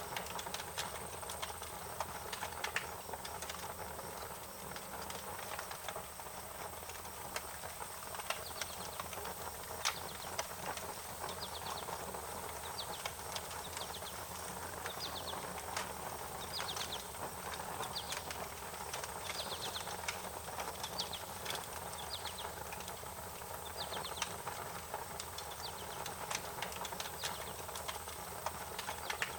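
A wood fire crackling steadily, with a soft hiss under many quick sharp pops. From about eight seconds in, short high chirping trills come in again and again over it.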